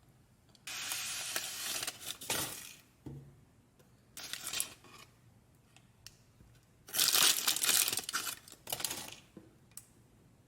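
Paper or plastic packaging being crinkled and torn open by hand, in three bursts of rustling with quiet pauses between, the last the loudest.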